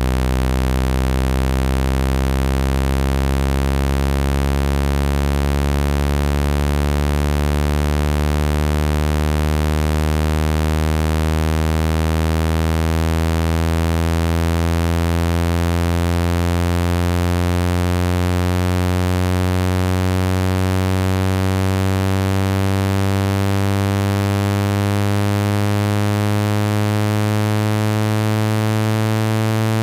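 Speaker-cleaning tone: a loud, buzzy low synthetic tone rich in overtones, slowly rising in pitch, played to shake water droplets and dust out of a phone speaker grille.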